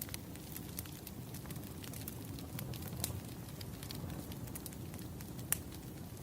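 Firewood burning, crackling: a steady low rumble of flames under scattered sharp pops, with two louder pops about three seconds and five and a half seconds in.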